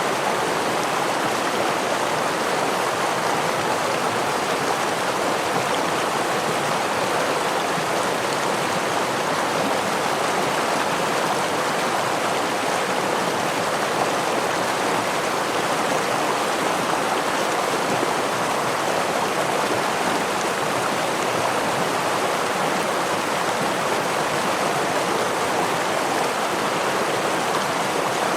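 Gentle stream and waterfall running steadily: an even rush of water that does not rise or fall.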